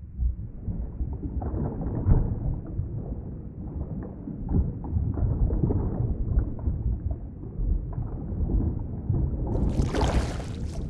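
Underwater ambience: a muffled, low rumble of water with irregular swells. Near the end the sound suddenly turns bright and hissy, with much more high-pitched noise.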